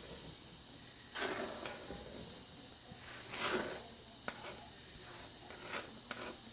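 Chopped green onions, chilies and garlic being tipped and scraped into a sauce container, heard as two brief swishes followed by a few light clicks and taps.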